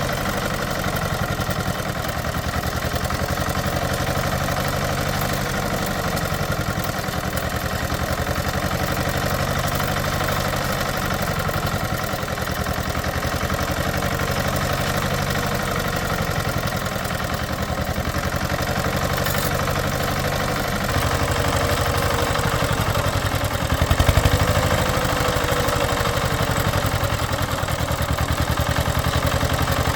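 An engine running steadily, its pulsing note unbroken throughout; it gets louder about two-thirds of the way through, with a brief surge a few seconds after that.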